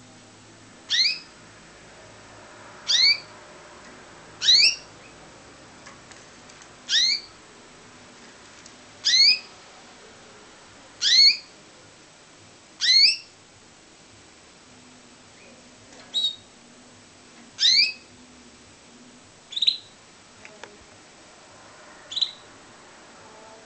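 Pet canary calling: short single chirps that sweep upward, about one every two seconds, eleven in all. The last few are shorter and sit at one higher pitch.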